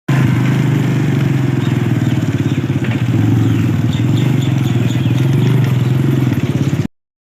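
Motorcycle engine running at a steady speed with a dense, even beat, then cutting off abruptly near the end.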